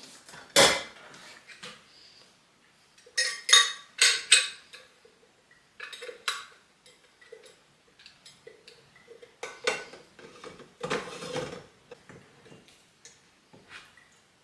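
Dishes and cutlery being handled: a loud knock about half a second in, then a quick run of ringing clinks, with scattered knocks and a short scrape later on.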